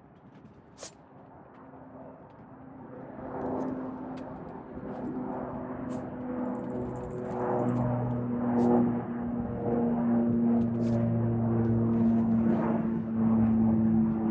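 Cessna 408 SkyCourier's twin Pratt & Whitney PT6A-65SC turboprops on the takeoff run: a propeller drone with a low steady hum and held tones, growing steadily louder. One sharp click about a second in.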